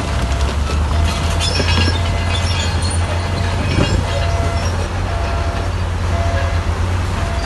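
Diesel engine of heavy earthmoving machinery running steadily under load, with metallic clanking and squeaking, and a short beep repeating about once a second.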